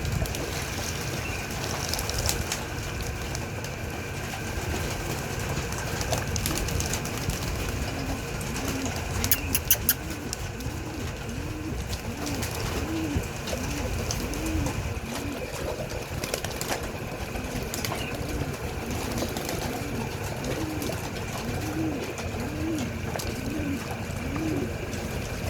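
Homing pigeons cooing: a long run of repeated low, rising-and-falling coos, a little under two a second, over a steady low background noise, with a few sharp clicks about ten seconds in.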